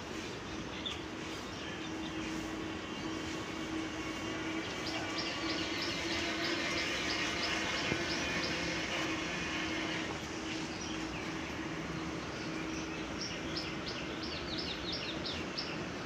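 Farmyard ambience: a bird calling two quick runs of short, high, descending chirps, the first about five seconds in and the second near the end, over a steady low hum.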